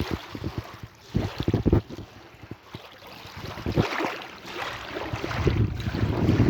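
Sea waves washing, with wind buffeting the microphone in rapid low thumps over the first couple of seconds. A wave's wash swells from about four seconds in and builds toward the end.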